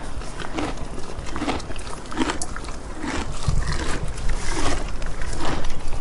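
Regular footsteps, about one a second, each a short knock, with a low rumble for about a second in the middle.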